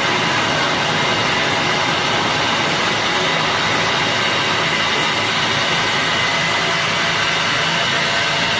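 Copra grinder-crusher machine running, a loud steady grinding and motor noise with no change.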